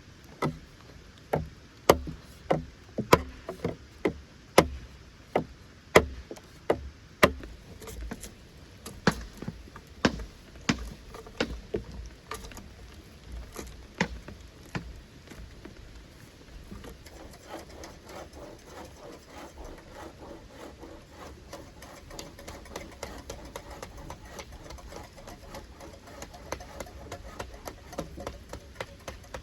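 A long series of sharp knocks, about two a second, loudest in the first several seconds, then weaker and further apart until they stop about halfway through. After that, a faint, dense crackling patter.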